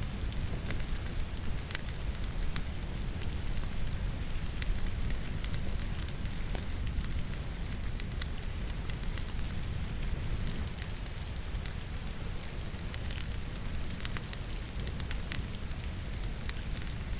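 Wood logs crackling and popping in a fireplace, with many sharp irregular snaps over a steady low rumble, mixed with a continuous hiss of falling rain.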